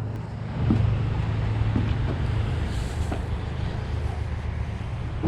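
A motor or engine running steadily with a low hum, with a few light knocks.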